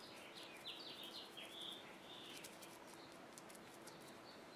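A bird chirping faintly, a quick run of short falling notes in the first couple of seconds, over near silence with a faint steady hum.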